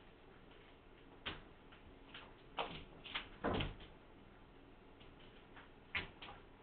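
A few light knocks and clatters in a quiet room: one about a second in, a cluster with a short rattle around the middle, and two quick knocks near the end.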